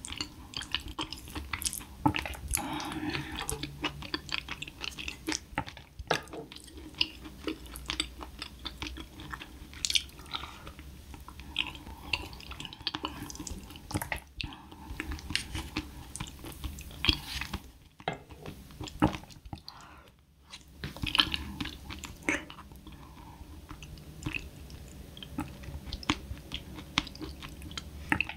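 Close-miked eating of soft rice porridge topped with sea urchin roe: wet chewing and mouth sounds with many small sharp clicks, now and then a louder smack.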